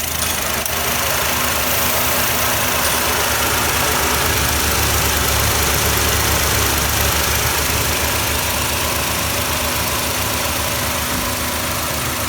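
Suzuki Jimny JB64's 660 cc three-cylinder engine idling with headlights and air conditioning on, with a fast frog-like croaking rattle from the alternator, a sign of a failing alternator. The sound gets a little louder about half a second in.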